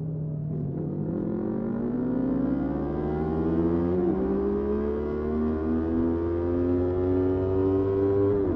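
Motorcycle engine pulling steadily up through the revs, with a brief dip in pitch about four seconds in and again near the end as it shifts up a gear.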